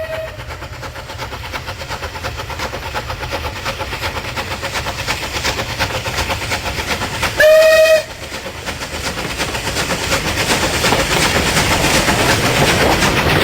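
Train running with a fast, even rhythmic clatter that grows louder over the last few seconds. One short, loud whistle blast comes about halfway through.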